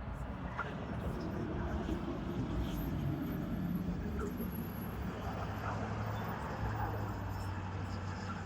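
A car passing on the street: a low, steady rumble that builds about a second in and holds.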